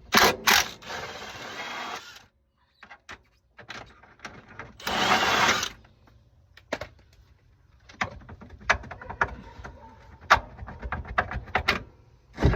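Hand tools working on the camber arm bolt: scattered metal clicks and knocks, with two noisy bursts of about a second each.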